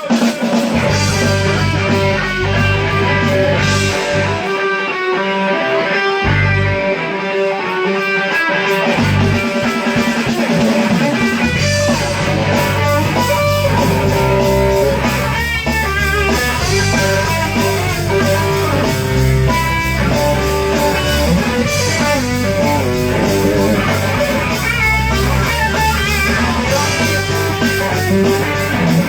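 Live band playing rock: electric guitar over a bass line, with drums and cymbals filling out the sound from about twelve seconds in.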